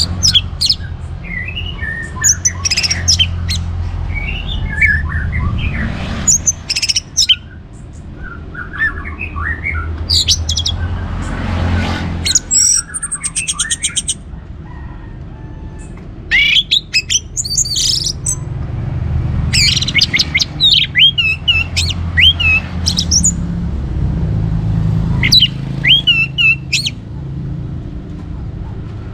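Orange-headed thrush singing a varied run of loud whistled phrases, sweeping notes and chirps, with a rapid even trill about twelve seconds in, over a steady low rumble.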